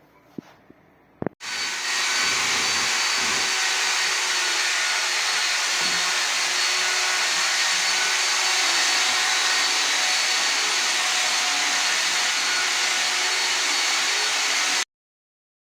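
A loud electric motor switches on with a click about a second and a half in and runs at a steady speed with a strong rushing hiss, then cuts off suddenly near the end.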